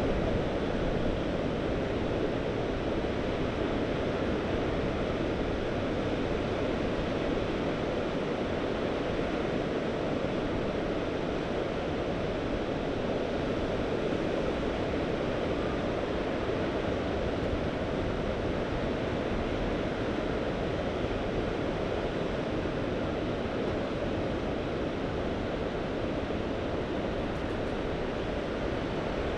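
Mediterranean sea surf washing steadily, a continuous even rush with no distinct wave breaks standing out.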